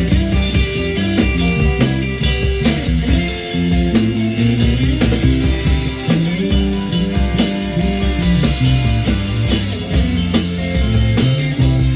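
A band playing blues-rock, led by electric guitar over bass with a steady beat.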